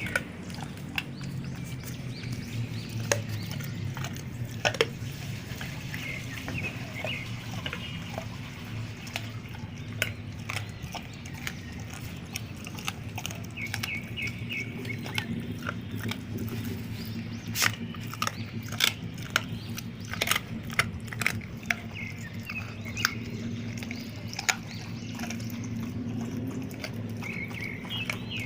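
Dogs chewing raw pork and chicken feet, with irregular sharp cracks of crunching bone that come thickest past the middle. Under it runs a steady low hum, and birds chirp now and then.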